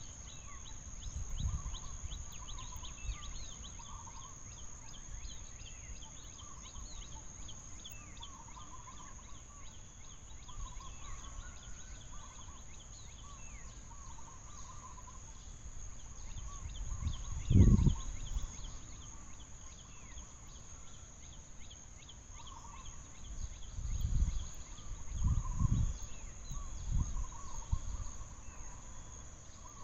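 Outdoor ambience: a steady high insect drone with short bird or fowl calls repeating throughout, and a few low thumps, the loudest about halfway through and a cluster near the end.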